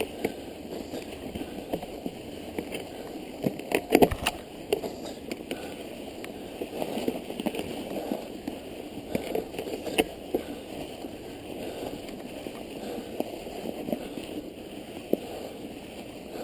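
Mountain bike riding through snow: steady crunching and swishing of the tyres, with scattered clicks and knocks from the bike, loudest about four seconds in and again about ten seconds in.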